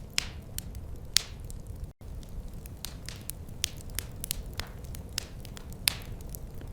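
Wood fire crackling in a fireplace: a steady low rumble of flames under irregular sharp pops, a few per second, with two louder pops about a second in and near the end. The sound cuts out for an instant about two seconds in.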